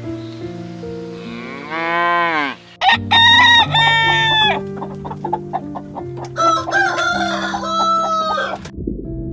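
Rooster crowing, one long cock-a-doodle-doo starting about three seconds in and a second call around seven to eight seconds, over soft background music. Just before the crowing, about two seconds in, a cow lows.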